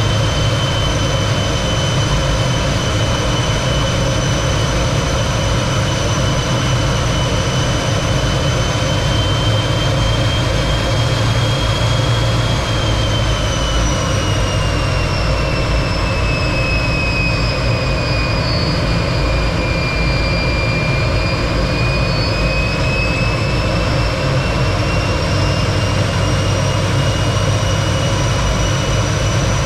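T-33 jet trainer's single turbojet running steadily in flight: a constant roar with a high whine on top. About halfway through the whine slowly drops in pitch as the engine spools down, then rises back to its earlier pitch near the end.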